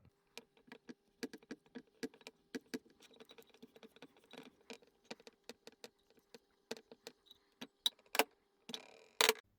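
Irregular light metallic clicks and taps, a few a second, over a faint steady hum, ending with a brief scrape and two louder knocks about a second apart.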